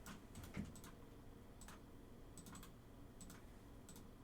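Faint, scattered clicking of a computer keyboard, about a dozen light clicks at irregular spacing in a near-silent room.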